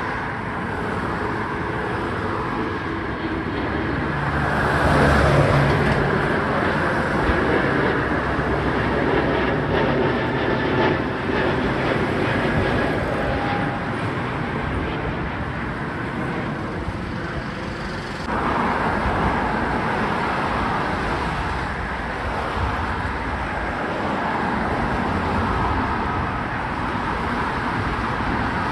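Steady roar of jet engines and road traffic. It swells about five seconds in and changes abruptly about eighteen seconds in.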